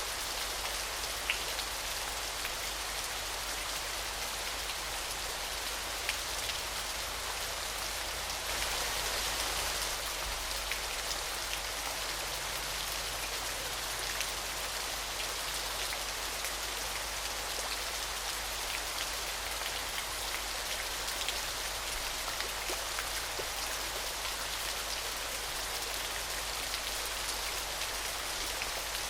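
Falling water splashing steadily: an even hiss dotted with many small sharp drip-like ticks, swelling slightly about a third of the way in.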